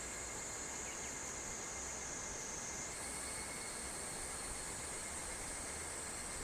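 Summer insects singing in a steady, high-pitched chorus that steps up in pitch about three seconds in, over a steady hiss.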